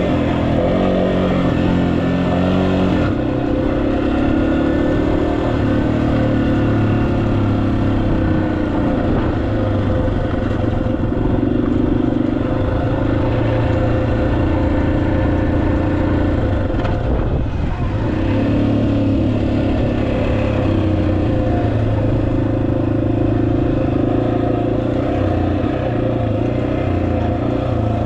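Motorcycle engine running under way, its pitch stepping up and down several times as the throttle and gears change.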